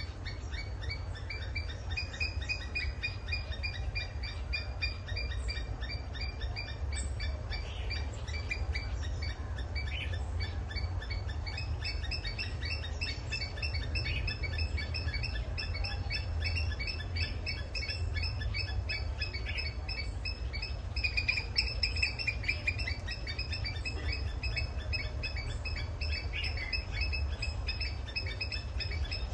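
Sri Lanka grey hornbill calling in a long run of rapid, repeated chattering notes, with a steady low rumble underneath.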